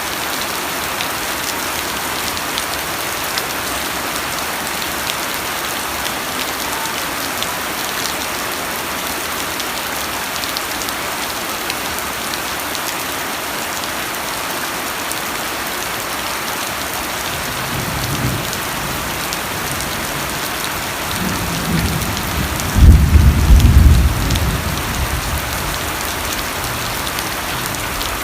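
Steady rain falling on a surface, an even hiss throughout. About two-thirds of the way in, a low rumble of thunder starts, then a louder roll of thunder comes a few seconds later and dies away over about two seconds.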